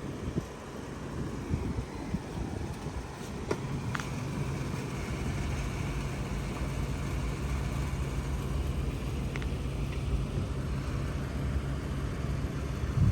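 Car driving: steady road and engine rumble, with a low hum settling in a few seconds in and a couple of light clicks around then.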